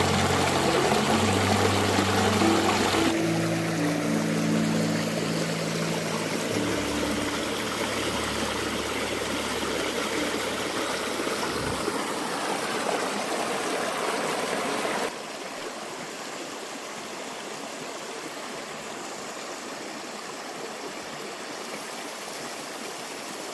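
Running water, a steady rushing stream, with low held music notes underneath that end about halfway through. The water sound drops suddenly in level about two-thirds of the way in, then carries on steadily.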